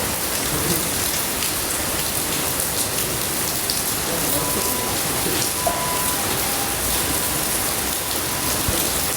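Steady heavy rain falling, with many small drop taps close by. A faint, brief high tone sounds a few times around the middle.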